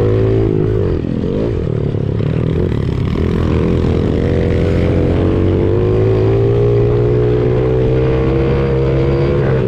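Honda CRF70 pit bike's small four-stroke single-cylinder engine running hard under the rider, its pitch dipping briefly about a second in, then holding high and climbing slowly, with another short dip near the end.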